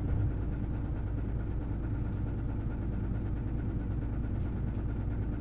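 Hino Blue Ribbon City Hybrid bus (BJG-HU8JLFP), heard from inside the cabin: its diesel engine and drivetrain running at a steady, unchanging pitch.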